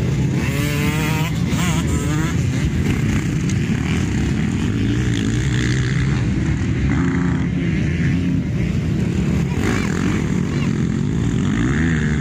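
Several motocross bikes racing on a dirt track, their engines revving up and falling back over and over as they pass.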